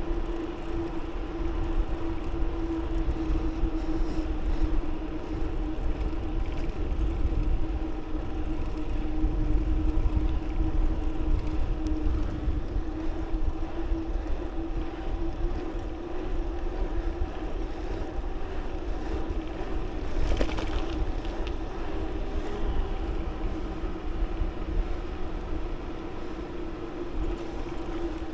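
Riding noise from a moving bicycle on a road: wind rumbling on the microphone over a steady hum that holds one pitch, with a brief hiss about twenty seconds in.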